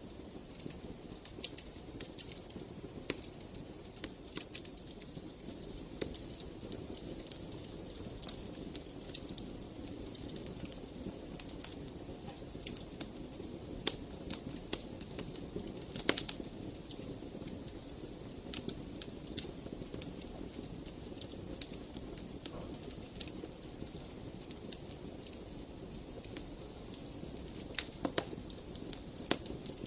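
Wood fire in a fireplace crackling: irregular sharp pops and snaps over a steady low rush of burning, with a louder pop about sixteen seconds in.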